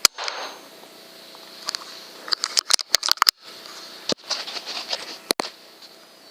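Air rifle shot: a single sharp crack right at the start, followed by a scattering of sharp clicks, knocks and rustling over the next few seconds.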